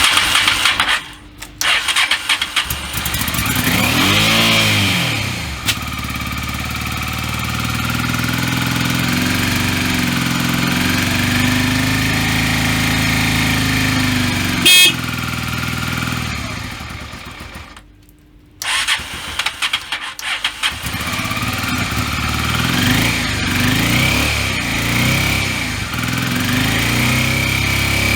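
Honda Transalp 400V's 398 cc two-cylinder four-stroke engine running: it is started, idles and is revved up and back down several times, and twice the sound drops out, about a second in and about 18 seconds in, before it comes suddenly back. A short horn beep sounds about halfway through.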